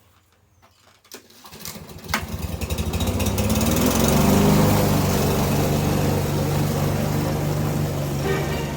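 Petrol lawn mower engine starting up about a second in, quickly rising to a steady run.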